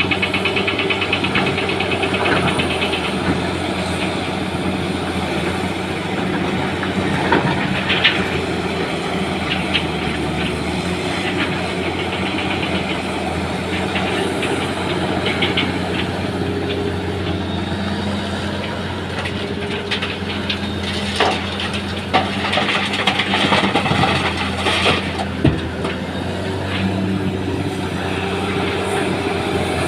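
Heavy diesel engine running steadily while stones are loaded into a truck, with scattered knocks and bursts of rattling from the rocks, busiest past the middle.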